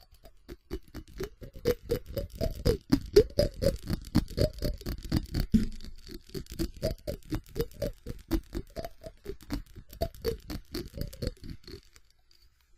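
Fast tapping on a ceramic object: rapid sharp taps, about five a second, each with a short hollow ring, stopping a little before the end.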